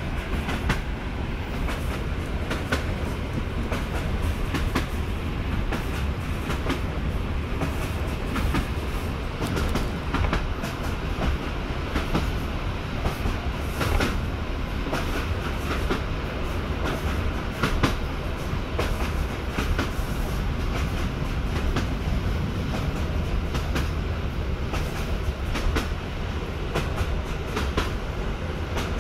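An EN57 electric multiple unit running along the line, heard from inside the car: a steady low rumble from the running gear with frequent clicks and knocks of the wheels over the rails.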